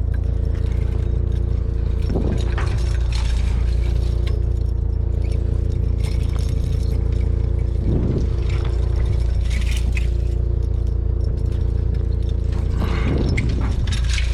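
A steady low engine drone, most likely the pickup truck left idling, with scattered metal clinks and scrapes as the scrap is handled.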